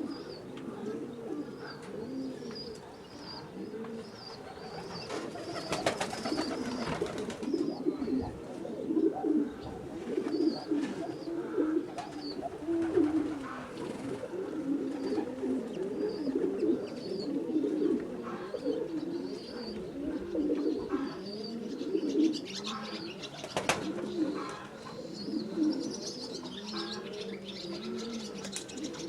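Several domestic pigeons cooing continuously in overlapping low calls, with scattered high chirps. Two short rushes of noise come about six and twenty-three seconds in.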